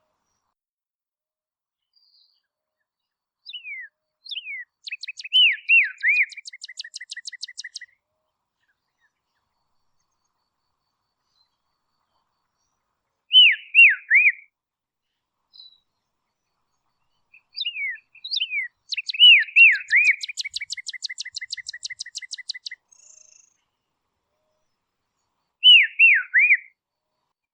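A songbird singing in separate phrases: a few clear whistled notes sliding downward, twice running on into a rapid chattering trill lasting about three seconds (about 4 s in and again about 18 s in), with shorter phrases of downslurred notes at about 13 s and near the end.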